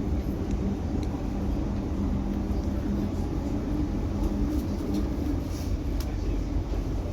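Steady low rumble and hum heard from inside a carriage of a Sydney Oscar H set electric intercity train, with faint scattered ticks and rattles over it.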